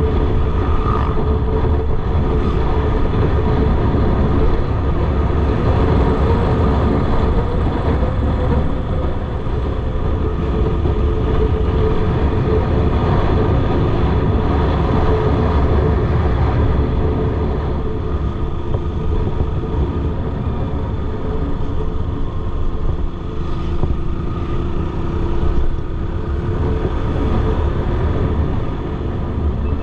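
Motorcycle engine running steadily on the road, with wind rushing over the microphone.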